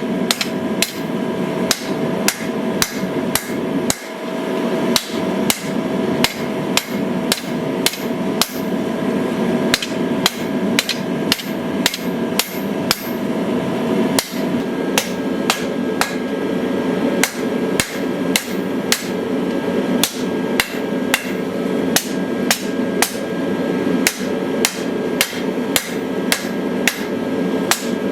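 Hammer blows on hot steel over an anvil while forging a hunting knife blade, struck in a steady rhythm of about two a second, over a steady rushing background noise.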